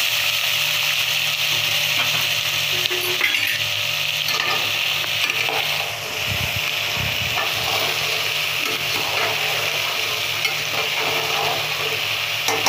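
Wet boiled black chickpeas sizzling as they drop into hot oil with browned cumin seeds in a metal pot, a steady frying hiss with the scrape and clink of a metal skimmer stirring them.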